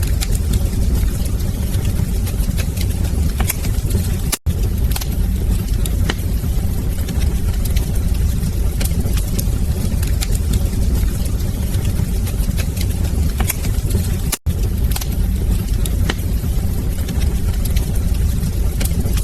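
Wood fire in a fireplace burning with a steady low rumble, crackling and popping at irregular intervals. The sound cuts out for an instant twice, about four and fourteen seconds in.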